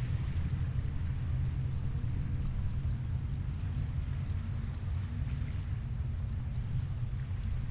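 Low, steady rumble of gentle ocean surf on a beach with the tide out, with an insect chirping high above it in an even rhythm, about three chirps a second.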